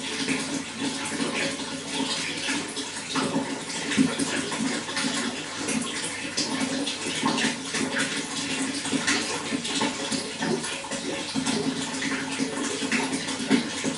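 Running water splashing and gurgling steadily, with many small splashes.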